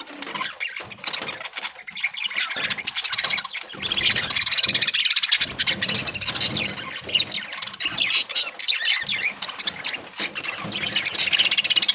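A flock of budgerigars chattering and chirping together, many birds at once in a dense, continuous twitter that grows louder and busier about four seconds in.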